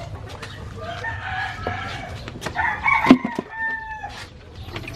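A rooster crowing, with long drawn-out calls that drop in pitch at the end, and a few sharp knocks about three seconds in.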